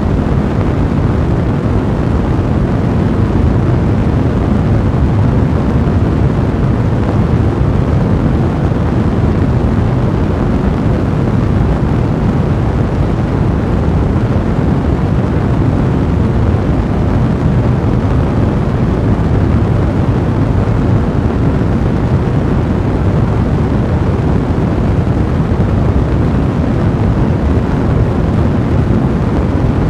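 Fire blazing in a fireplace: a steady, dense low rumble.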